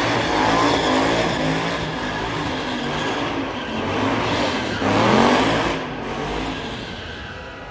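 A motor vehicle's engine revving hard, its pitch rising and falling, with a loud rising rev about five seconds in.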